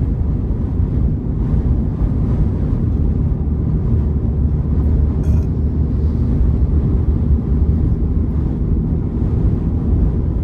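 Steady low rumble inside a car driving through strong, gusty dust-storm wind: road and wind noise buffeting the vehicle, with a faint click about halfway through.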